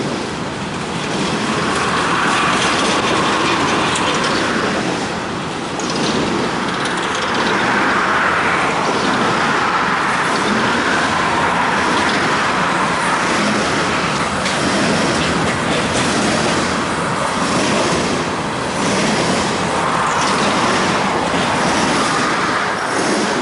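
Empty coal hopper cars rolling past on the track below, mixed with steady highway traffic noise from the interstate overpass. By the end the train is gone and the traffic noise remains.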